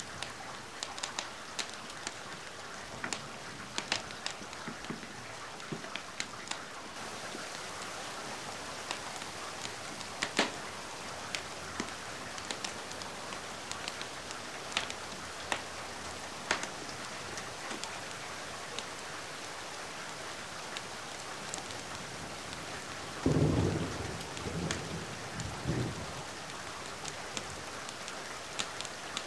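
Steady rain with scattered sharp crackles and pops from a wood fire. Near the end a low rumble of thunder rolls for about three seconds and is the loudest sound.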